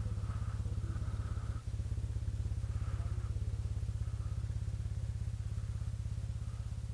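Kymco Xciting 400i scooter's single-cylinder engine running steadily under way, a low, evenly pulsing drone with a brief dip about a second and a half in.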